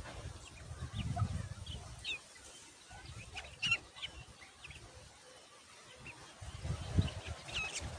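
Black drongo calls: short, scattered high chirps and squeaks, a few at a time, with gaps between them.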